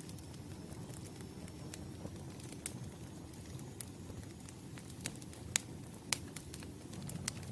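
Campfire burning: a steady low rumble of flames with sharp, irregular pops and crackles, a few of them louder about halfway through.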